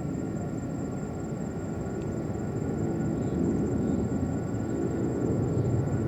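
Jet airliner engines rumbling at a distance, the sound slowly growing louder, with a faint steady whine higher up.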